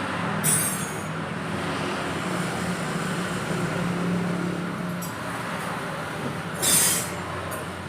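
A small engine running steadily, with two short hisses: one about half a second in, one near the end.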